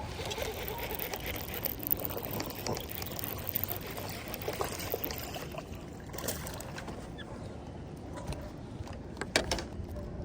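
Water splashing and trickling around a fishing kayak as a hooked bass is brought aboard, with scattered clicks and knocks; a sharp knock a little before the end is the loudest.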